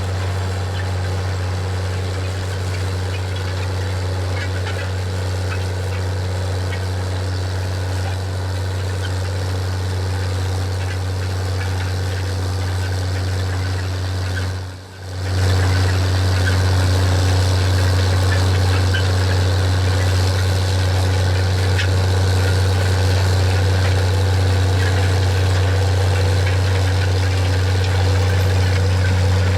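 John Deere 9420's 12.5-litre diesel engine running steadily under load while the tractor pulls a vertical tillage disk. About halfway through, the sound breaks off for an instant and comes back slightly louder.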